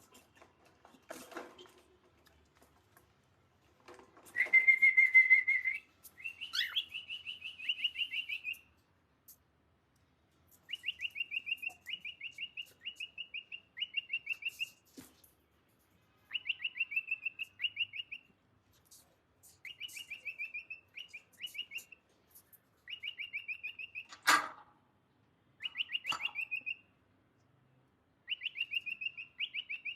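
Cockatiel calling in repeated short phrases of rapid, chattering chirps, with a louder, steadier whistle-like call about five seconds in. A single sharp click comes near the end.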